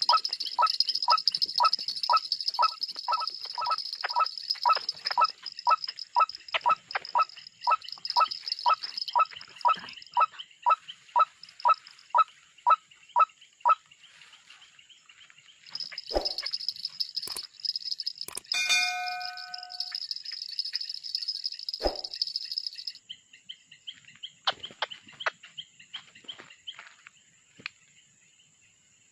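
White-breasted waterhen calling, a steady rhythmic series of short notes about two a second, which stops about halfway through, over a steady high-pitched buzz. A short ringing chime sounds once, a little past halfway.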